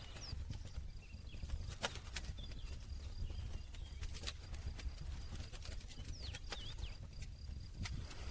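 Campfire burning, its wood crackling with sharp pops every second or two over the low, steady rumble of the flames. A few brief high chirps come about six to seven seconds in.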